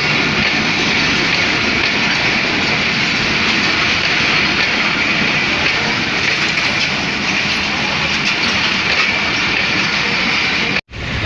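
Passenger train running along the track, a loud, steady noise of wheels and carriage. The sound cuts out for an instant near the end.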